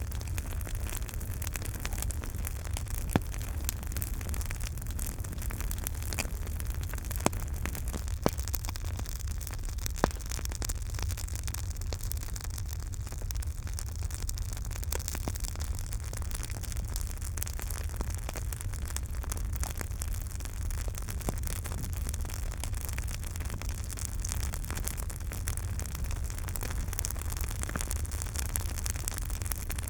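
Campfire burning: a steady low rumble and hiss of the flames with frequent small crackles, and a few louder pops of the wood in the first third.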